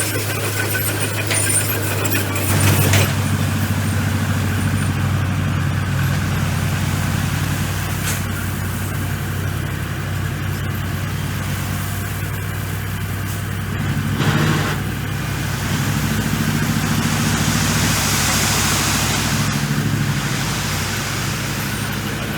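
Komatsu bulldozer's diesel engine running steadily while it works gravel, with short louder noisy swells about three seconds in and again near the middle.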